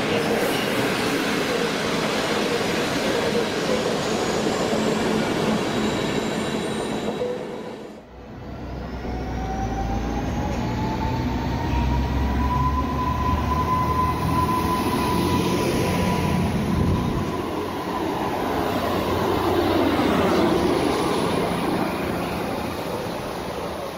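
Trains at a railway station: a train running with steady rail noise, then, after a sudden cut about eight seconds in, a deep rumble with a whine that rises in pitch and then holds level.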